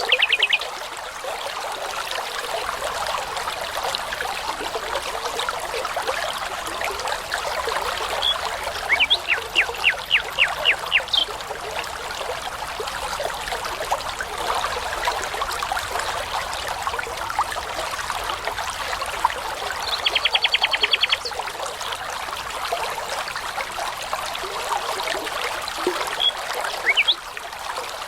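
Brook running steadily over stones, with a few short phrases of nightingale song on top: a run of about ten repeated notes in the first half, and a fast trill of repeated notes about two-thirds of the way through.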